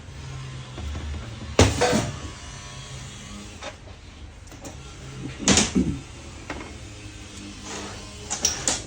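A few sharp knocks and clatters: one about a second and a half in, one a little after halfway, and a quick cluster near the end, over a steady low hum.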